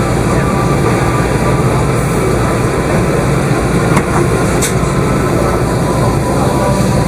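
Steady cabin noise inside an Airbus A380 taxiing on the ground: an even, loud rumble and hiss with faint steady tones through it. A small click sounds about four seconds in.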